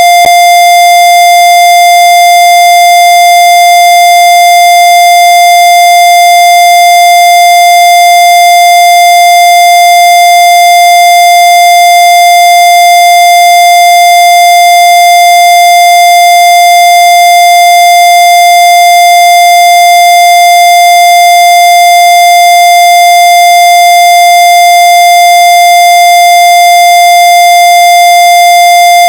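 A loud, steady electronic tone held at one pitch, with no change or break. It is a single mid-high note with a buzzy edge from many higher overtones.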